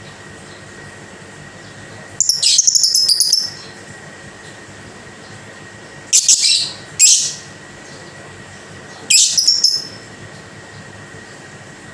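Female lovebird giving shrill chattering calls in four bursts: a run of rapid notes about two seconds in lasting over a second, then shorter bursts around six, seven and nine seconds in. A steady hum with a faint thin tone runs underneath.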